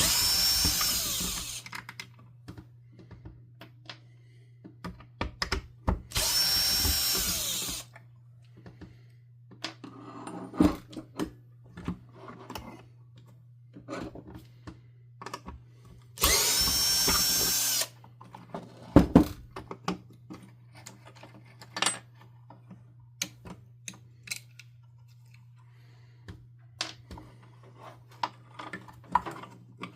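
Power drill-driver whining in three short bursts, at the start, about six seconds in and about sixteen seconds in, backing screws out of a vacuum power nozzle's housing. Clicks and knocks of plastic parts being handled come between the bursts.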